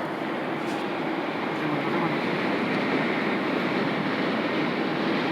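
Steady road and wind noise of a car moving at highway speed, heard from inside the vehicle, growing slightly louder partway through.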